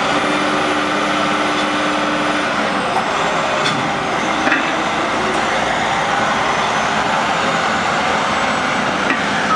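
Diesel engines of heavy oilfield trucks running steadily, with a faint steady whine for the first couple of seconds.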